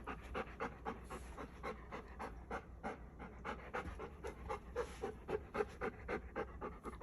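Golden retriever panting fast and evenly, one short breath after another.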